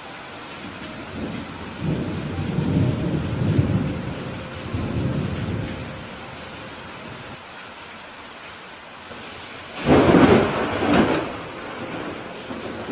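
Steady rain with thunder: a low rolling rumble swells and fades over a few seconds, then near the end a sharp, loud thunderclap cracks, with a second crack about a second later.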